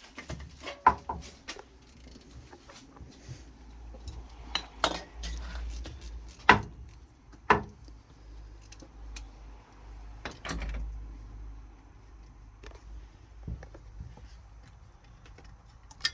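Metal hand tools and engine fittings clinking and knocking, about eight separate sharp strikes spread out, while a fitting on a turbocharger is undone.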